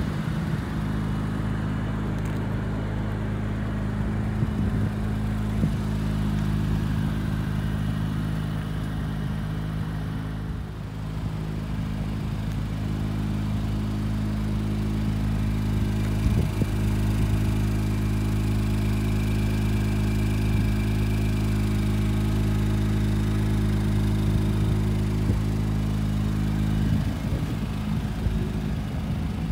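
2017 Acura NSX's 3.5-litre twin-turbocharged V6 idling with a steady, even note; near the end the note breaks up and changes.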